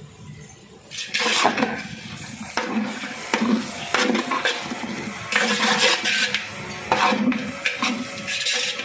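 A metal ladle scraping and clanking against a large metal pot, in repeated strokes, while chicken is stirred and tossed with the spices just added. The stirring starts about a second in.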